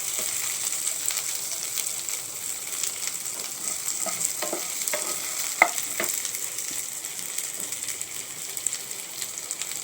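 Shallots sizzling as they sauté in hot coconut oil in a pan, a steady frying hiss with scattered light clicks, one sharper about halfway through. The onions are just starting to soften and brown.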